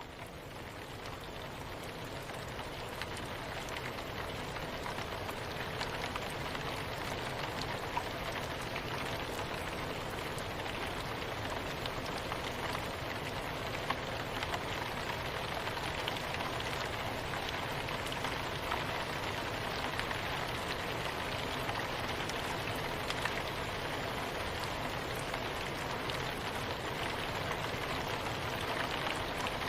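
Soft, steady rain: an even hiss of rainfall with scattered individual drops ticking. It fades up over the first few seconds, then holds level.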